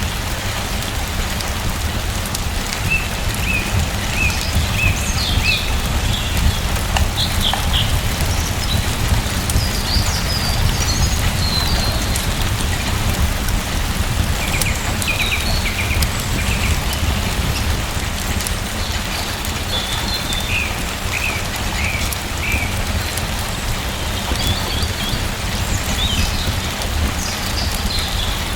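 Steady rain with a low rumble, and small birds chirping in short runs of calls every few seconds.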